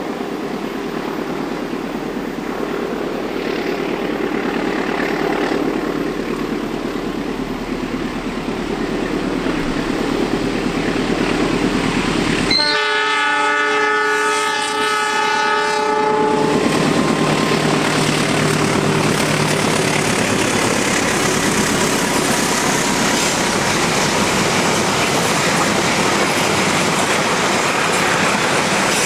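Taksaka passenger train, hauled by a diesel locomotive, running past: a steady rail rumble that grows louder, then a horn blast of about four seconds near the middle, then the passing carriages' loud, steady roar with wheel noise on the rails.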